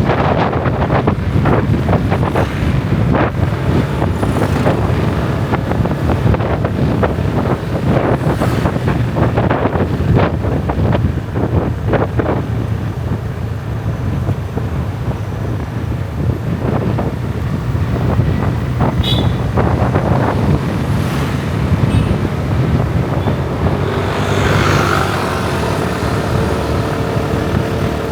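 Motorbike engine running steadily while riding, with wind buffeting the microphone and road noise. A few brief higher tones from other traffic come in near the end.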